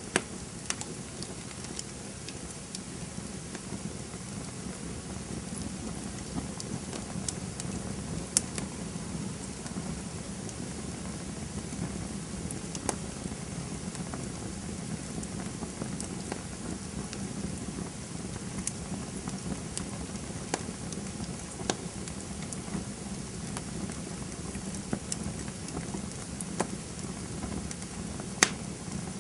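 Campfire burning: a steady low rush of flames with irregular sharp crackles and pops from the burning wood, a few pops much louder than the rest, one about a third of the way in and one near the end.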